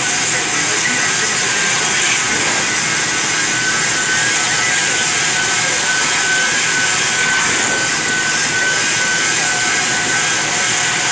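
CNC lathe running steadily while machining a DS38 box connection: a constant hiss with a faint high whine.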